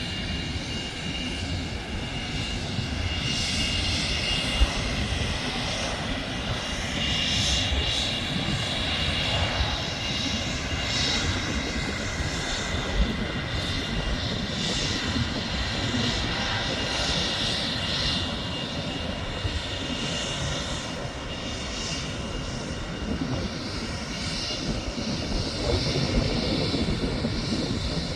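Air France Airbus A220's Pratt & Whitney PW1500G geared turbofans running: a steady jet rumble with a high whine that grows and fades in patches, and two brief sharp knocks.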